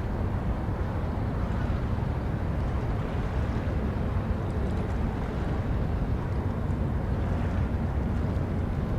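Steady low rumble of a ship's engines, with a faint constant hum running through it.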